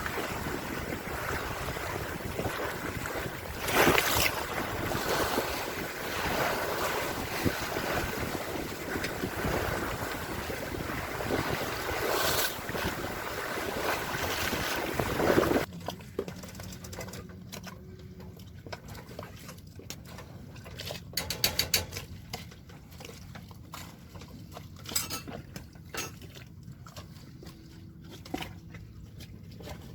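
Wind and water noise aboard a sailboat, with a few louder gusts. About halfway it cuts off suddenly to a much quieter background with scattered clicks and knocks.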